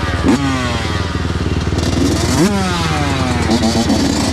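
Dirt bike engine revving hard twice, about a third of a second in and again about two and a half seconds in, the pitch falling slowly after each rev, with a shorter wavering rev near the end.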